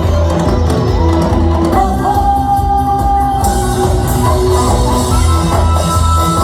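Live amplified trot song: a male singer holding long notes over a band with a steady bass beat.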